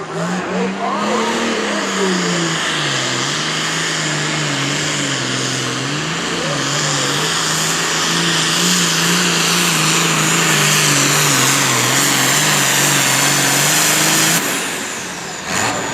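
A pulling tractor's engine running flat out under load during a pull, its pitch wavering up and down, with a high whine over it. The engine sound cuts off suddenly about 14 seconds in.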